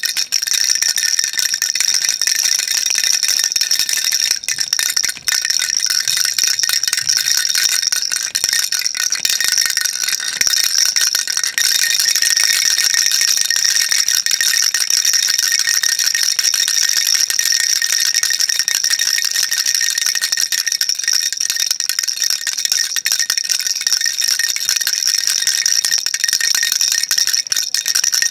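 A baby rattle shaken continuously: a dense, steady, high-pitched rattle of small beads inside a toy, with a brief break about five seconds in.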